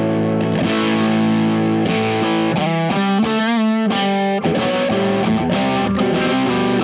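Electric guitar played through a No Mask drive pedal into an amp: overdriven chords and notes ringing out, with one held chord shaken with vibrato about three seconds in.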